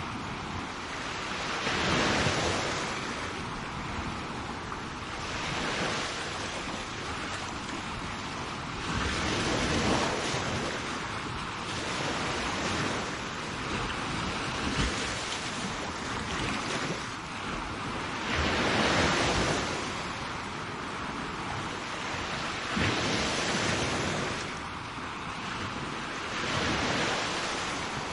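Sea waves breaking and washing up on a shore, swelling and fading every few seconds.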